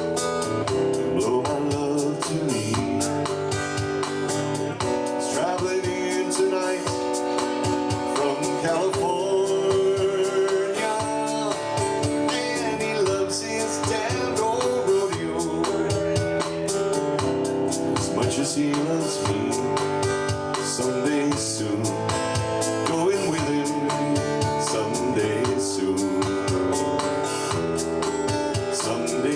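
A man singing a country-folk song to strummed acoustic guitar, performed live.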